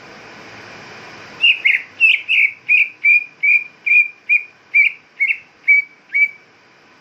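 Cucak ijo (leafbird) calling in a quick series of about a dozen short, sharp whistled notes, roughly three a second, beginning about a second and a half in. This is the kind of agitated call used to provoke other birds into singing. A faint steady hiss lies under the first second and a half.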